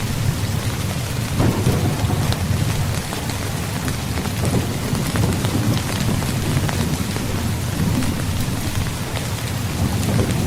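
Steady heavy rain falling, with a continuous low rumble of distant thunder underneath and no sharp thunderclap.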